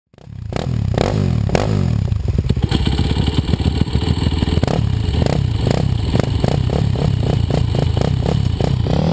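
Motocross quad engine revving hard, its pitch climbing and falling over and over, with a quick run of short rev blips in the second half.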